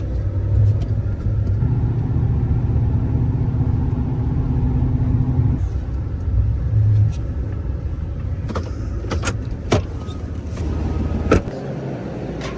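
Pickup plow truck heard from inside its cab while driving: a steady low engine and road drone. A few sharp clicks or knocks come in the last few seconds as the low rumble drops away.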